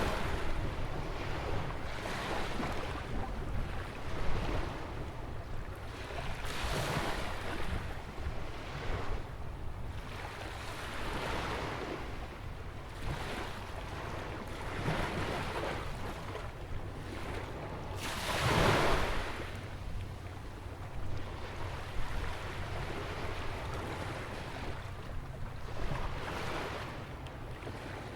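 Ocean waves breaking and washing in beside a rock jetty, one surge after another, the loudest about two-thirds of the way through. Wind buffets the microphone with a low rumble.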